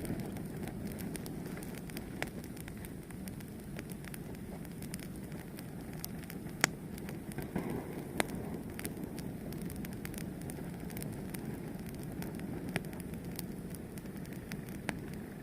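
Fire burning with a steady low rush and scattered sharp crackles. Two louder pops come a little before and after the middle.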